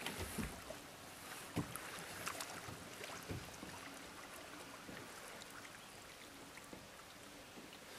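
Kayak on the water being paddled: irregular soft knocks and small splashes from the paddle, about one every second.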